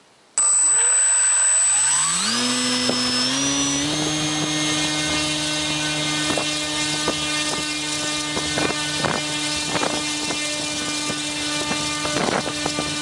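1050 KV brushless motor turning a 10x6 propeller, starting abruptly about half a second in and spinning up in steps, its pitch rising over the first few seconds, then running at a steady speed.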